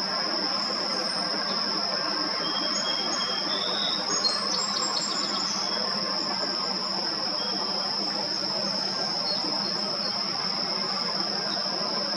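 Steady high-pitched insect trill at one unchanging pitch over a constant wash of background noise, with a scatter of short, high bird chirps in the first half.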